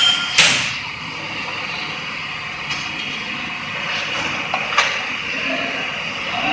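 Two sharp metallic clanks of hand tools on the engine right at the start, then steady workshop background noise with a few light clicks of tools on metal.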